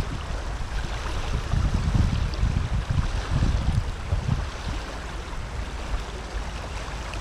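Water rushing from a flowing outflow, a steady noise, with wind buffeting the microphone in uneven gusts.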